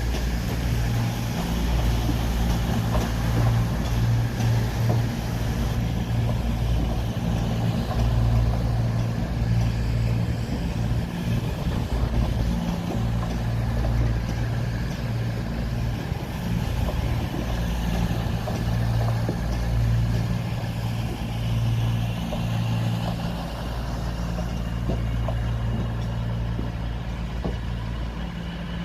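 A train's engine running steadily at idle, a low, even hum that swells and eases slightly.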